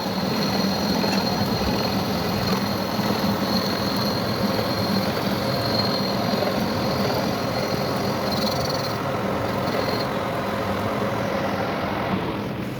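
Workshop machine running steadily: a dense rushing noise with a faint high whine and a low hum, easing off slightly near the end.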